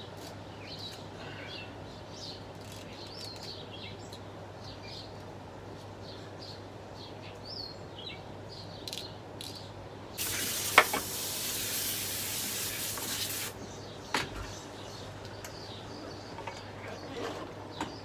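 A loud hiss of pressurized spray for about three and a half seconds, starting suddenly about ten seconds in and cutting off, with a click during it and another click shortly after. Faint bird chirps and a low steady hum run underneath.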